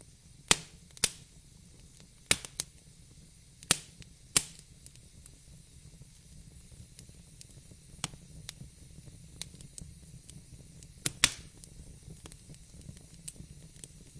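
Wood fire crackling in a fireplace: sharp pops and snaps at irregular intervals, several in the first few seconds and a loud pair about eleven seconds in, over a steady low hiss of burning.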